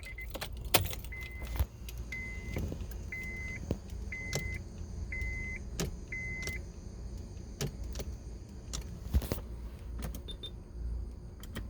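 A car's interior warning chime beeping six times, about once a second, with scattered sharp clicks in the cabin over a low, steady rumble.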